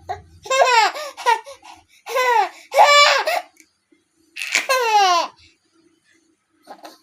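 A baby vocalising in three loud, high-pitched bursts whose pitch bends up and down, between crying and laughing, with a short faint one near the end.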